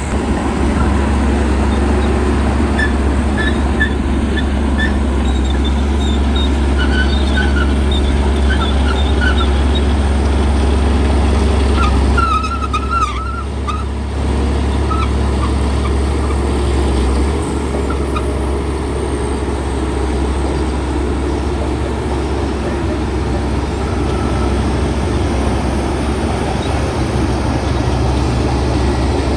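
Bulldozer diesel engine running with a steady, deep drone. Short high squeaks sound over it between about three and ten seconds in, and again briefly around thirteen seconds.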